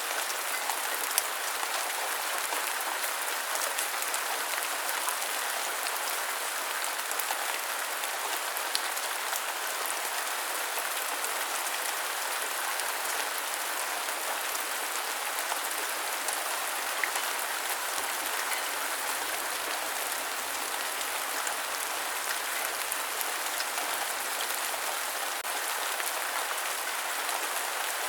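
Steady rain falling, an even hiss with a few sharper ticks scattered through it.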